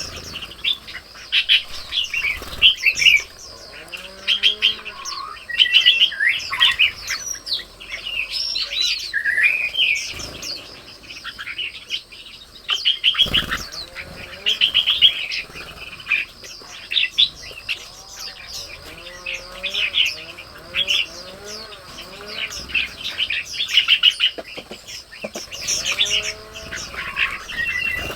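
Birds chirping and calling in quick, overlapping high notes and short trills, with fainter, lower gliding calls underneath and a couple of brief knocks.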